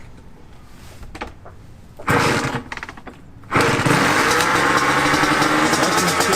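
Honda CR85 two-stroke dirt bike engine starting: about two seconds in it fires briefly and dies away, then at about three and a half seconds it catches and keeps running steadily.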